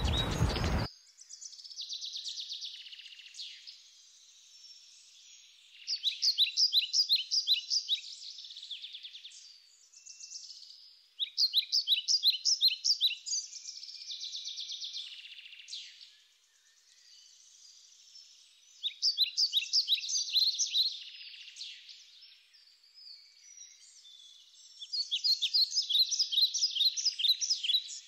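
Bird song: phrases of rapid, repeated high chirping notes, each lasting two to three seconds and coming about every six seconds, with a faint hiss between them.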